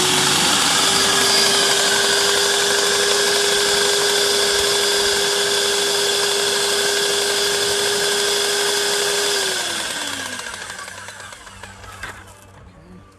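Airless paint sprayer pump motor running steadily with a hiss, pumping out the last of the paint at the start of cleanup. About nine and a half seconds in it is switched off, its hum falling in pitch as it winds down and fades.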